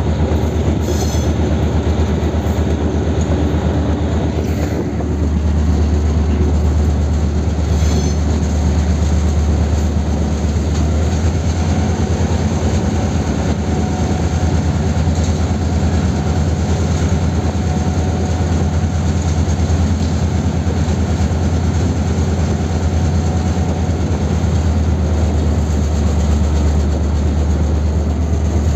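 Diesel-hauled passenger train running along the track, heard close to the locomotive: a steady low engine drone under the rattle of wheels on rail. The low drone grows stronger about five seconds in.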